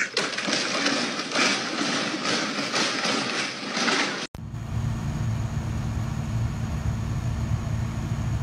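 About four seconds of loud, clattering commotion, then an abrupt cut to a car engine idling: a steady low rumble heard from inside a car.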